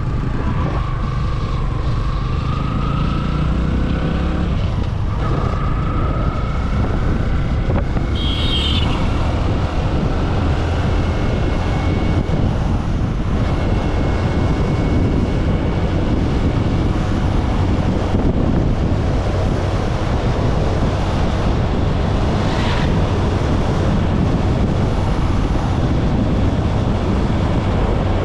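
Steady wind rushing over the microphone, as heard while riding. A motor's rising tone comes through in the first few seconds.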